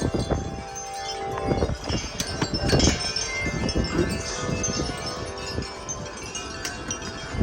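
Several wind chimes ringing in strong, gusty wind, their tubes struck over and over so that many tones overlap and sustain. Wind rumbles on the microphone underneath.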